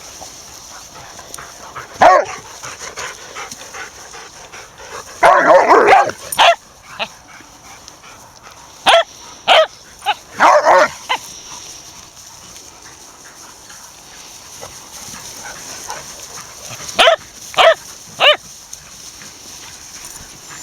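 Dog barking in short groups: a single bark, then a longer run of barks, several more, and three in quick succession near the end, over a steady high hiss.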